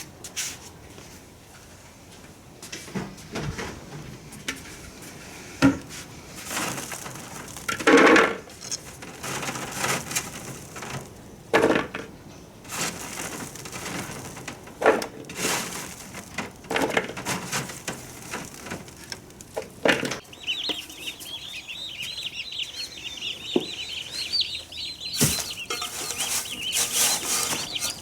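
Scattered knocks and rustling of something being handled, then, from about two-thirds of the way in, a crowd of day-old turkey poults peeping: many quick high chirps at once.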